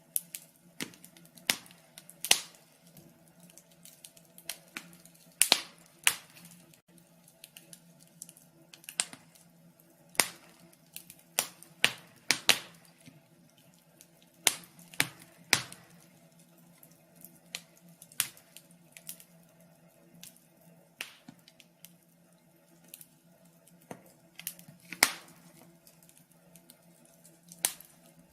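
Wood fire crackling, with irregular sharp pops and snaps, a few much louder than the rest, over a faint steady low hum.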